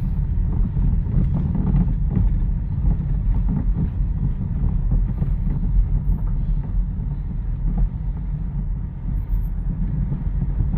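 Mazda 2 driving on the road, heard inside the cabin: a steady low road rumble with a few faint knocks from the front suspension. The mechanic suspects worn rack ends and tie-rod ends, or at worst the control arm, since new shock absorbers only reduced the noise.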